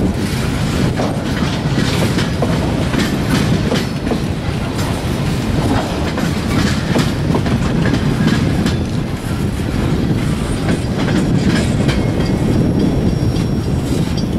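Empty freight flatcars rolling past close by: a steady noise of steel wheels on rail, with frequent short clacks as the wheels cross rail joints.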